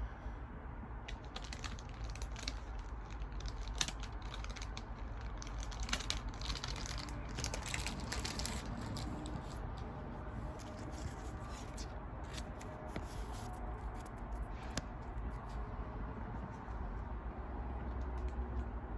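Pokémon trading cards and booster-pack wrappers being handled: irregular rustling, sliding and light crinkling with small clicks, over a low room hum.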